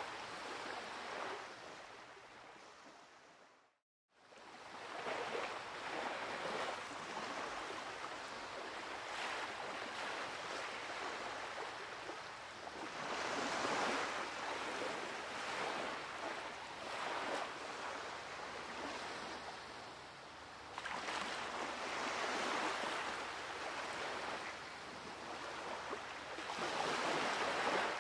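Recorded sound effect of sea waves breaking on a shore, swelling and ebbing every few seconds. It fades down to a moment of silence about four seconds in, then comes back.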